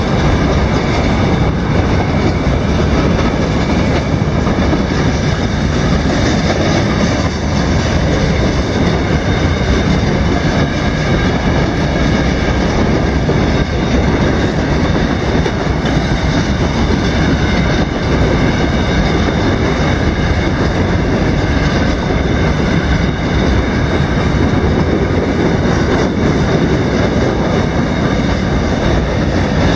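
Freight train of covered hopper cars rolling steadily through a grade crossing, the wheels running loud and even on the rails.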